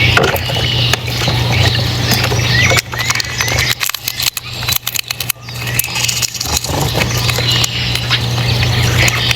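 Birds giving short rising chirps and squeaky calls, with scattered clicks, over a steady low hum that drops out for a few seconds in the middle.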